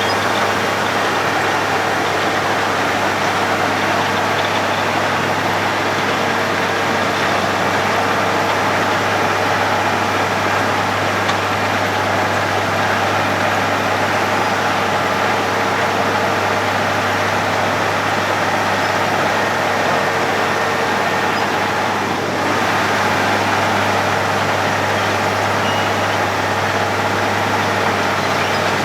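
Road planer (cold milling machine) at work, running steadily with a constant low engine hum over a dense, even noise.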